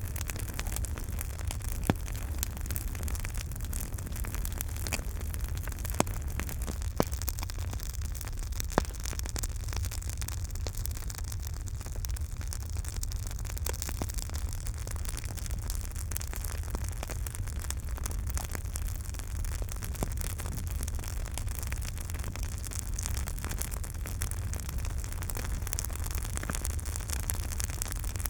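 Campfire burning: a steady low rumble and hiss with frequent small crackles, and a few sharper pops in the first nine seconds.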